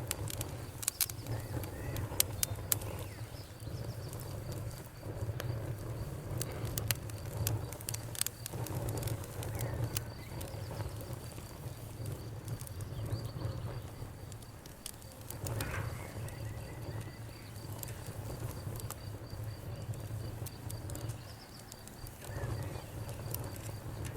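Campfire burning, wood crackling with irregular sharp pops over a steady low rumble of flames. The pops come thickest in the first several seconds.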